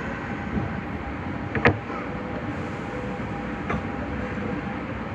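Nagoya subway 5050-series train running, a steady rumble with a faint steady whine. A sharp click sounds about a second and a half in, and a fainter one about two seconds later.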